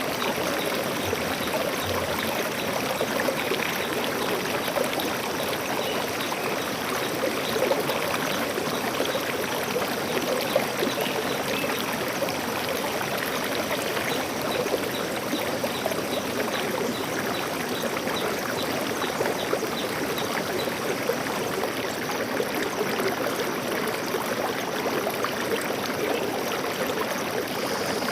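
Stream water flowing, a steady rushing and trickling that goes on without pause.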